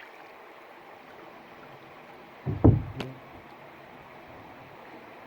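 Canoe paddling on a lake: a soft steady wash of water, with one louder paddle splash about two and a half seconds in that ends in a sharp knock.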